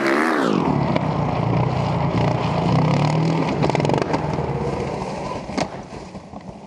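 A motor vehicle's engine running steadily, with a falling pitch right at the start, then fading away near the end.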